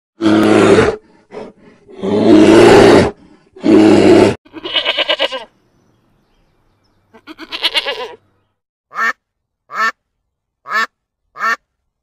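A bear's deep growling roars, three loud ones in the first four seconds, then two quavering sheep bleats, then a duck quacking four times at an even pace.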